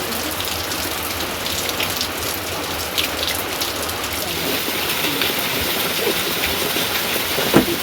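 Heavy rain falling steadily, with many individual drops striking close by. One sharp knock near the end.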